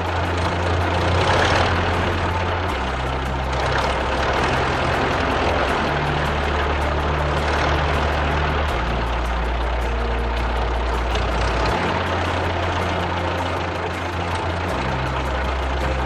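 Steady heavy-vehicle engine rumble, like a road roller running, with a low drone that shifts pitch every three seconds or so.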